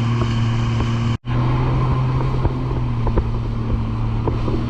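Jet ski engine running at a steady cruising speed, a constant low drone with wind and water noise over it; the sound cuts out completely for a split second about a second in, then resumes unchanged.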